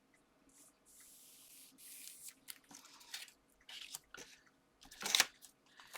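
Handling of card and double-sided foam tape: rustling and crackling as the tape's backing is worked and peeled, with a short hiss about a second in and a sharper crackle about five seconds in.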